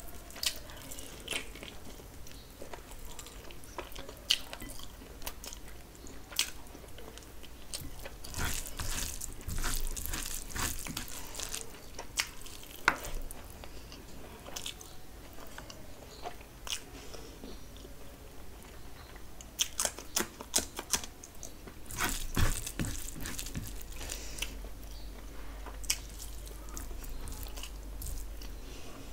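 A person eating mutton biryani by hand, chewing and biting close to the microphone, with sharp wet clicks at irregular intervals.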